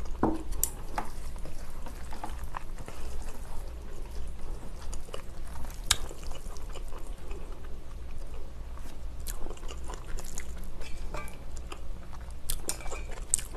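A person chewing a mouthful of noodles in spicy sauce, with scattered short clicks of chopsticks against a stainless steel bowl.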